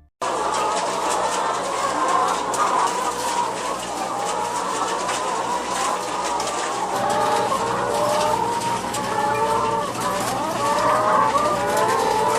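Many chickens calling over one another in dense, overlapping short calls, over a steady low hum and a scatter of small clicks.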